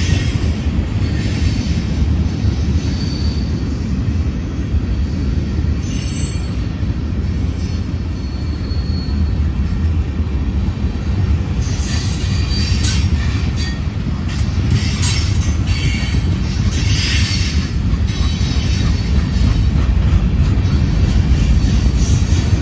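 Mixed freight cars of a manifest train rolling past: a steady low rumble of steel wheels on rail, with high wheel squeal coming and going.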